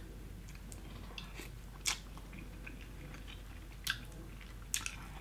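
A person chewing and biting food, with a few short sharp crunches or mouth clicks, the clearest about two seconds in and two more near the end.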